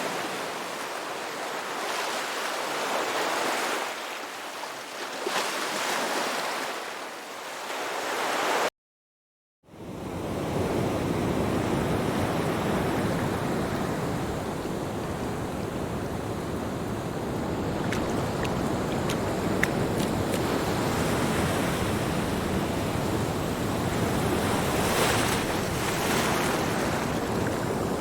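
Surf washing onto a beach, rising and falling in swells, with wind on the microphone. The sound cuts out completely for about a second around nine seconds in, then resumes with a heavier low wind rumble.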